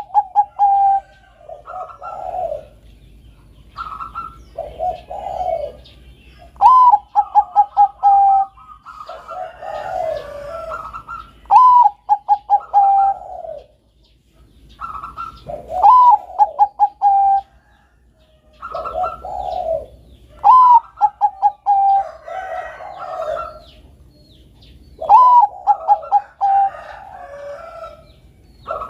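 Bangkok-strain zebra dove (perkutut) singing: repeated cooing phrases, each a rising note followed by a quick run of short notes and a held coo, coming every few seconds and sometimes overlapping.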